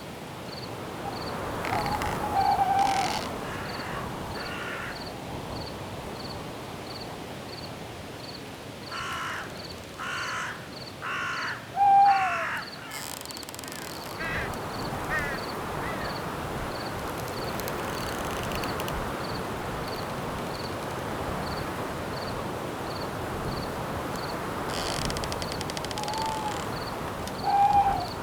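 Night forest ambience: a steady wind-like hiss with a cricket chirping evenly about three times a second. About ten seconds in, a bird gives four harsh caws in a row, and a few short owl hoots sound through it, one near the middle and two near the end.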